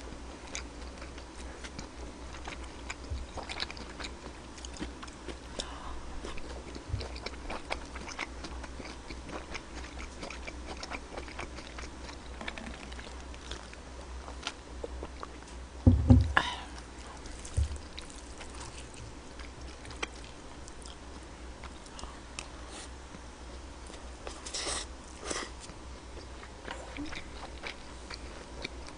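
Close-miked eating: a person chewing bean-sprout rice with pork belly, with small mouth smacks and spoon clicks throughout. One loud thump about halfway through, and a few sharper clicks near the end.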